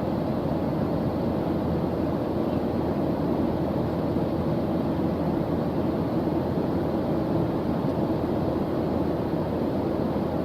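Steady white-noise background track: an even, unbroken hiss with most of its weight in the low range and no changes or distinct events.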